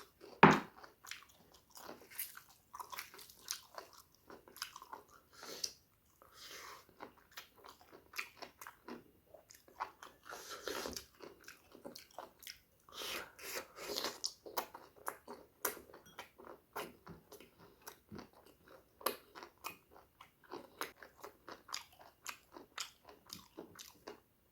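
Close-miked eating: a person chewing and biting through a pork curry meal with rice, making a stream of short, wet mouth clicks. There is one sharp, loud knock about half a second in.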